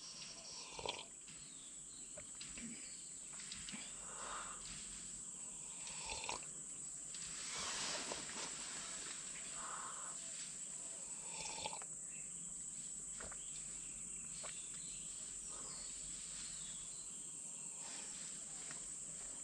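Insects chirring in a steady high-pitched chorus, with scattered rustles and light knocks over it and a longer rustle about eight seconds in.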